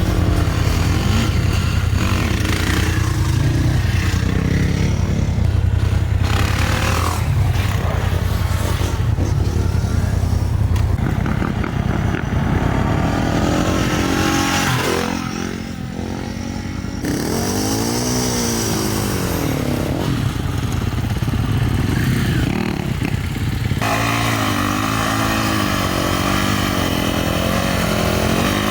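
Dirt bike engines running and revving, the pitch rising and falling with the throttle, in several clips that cut abruptly from one to the next.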